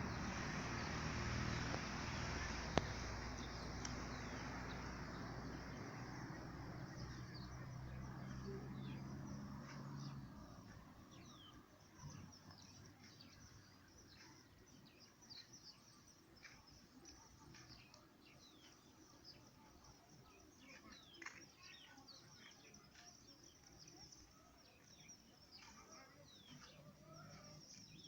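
Birds chirping and twittering in many short, quick high calls over a faint, steady high hiss. For about the first ten seconds a louder rushing noise with a low steady hum lies under them, then fades away.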